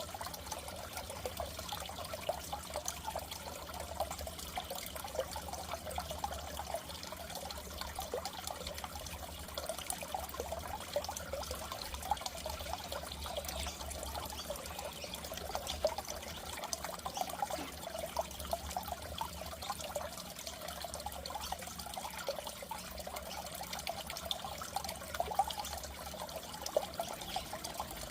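Steady trickling, bubbling water in a goldfish aquarium, with a low steady hum underneath.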